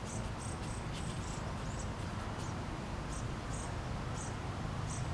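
Outdoor ambience: short, high-pitched chirps from a small animal, repeating about every half second at uneven intervals, over a low steady rumble.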